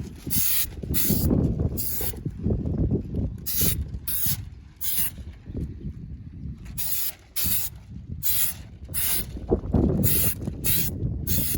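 Aerosol can of Krylon truck bed coating spraying in a run of short hissing bursts, about fifteen in all, grouped in clusters, over a low rumble.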